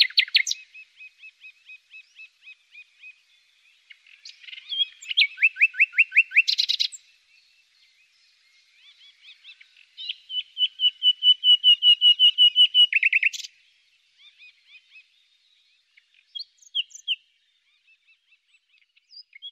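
Songbirds singing: rapid trilled phrases of quick repeated notes, two loud ones in the middle each ending in a short flourish, with softer chirps between.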